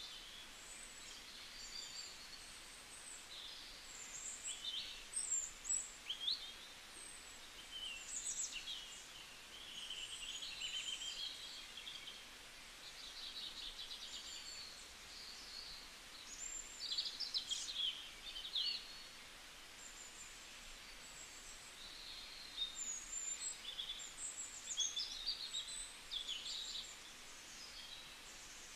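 Small birds chirping and twittering over and over: many short, high-pitched calls, some in quick trills, over a faint hiss.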